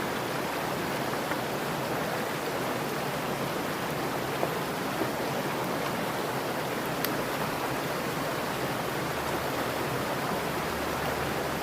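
Mountain stream water rushing steadily over rocks close to the microphone.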